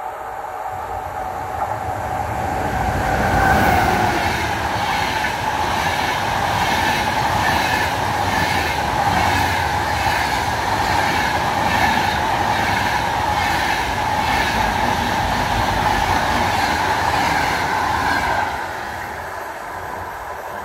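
Passenger train hauled by a Siemens Vectron electric locomotive passing by: the sound builds up to the locomotive going past about three seconds in, then the coaches follow with a rhythmic clickety-clack of wheels and a steady high ringing tone, until the last car passes near the end and the sound drops off sharply.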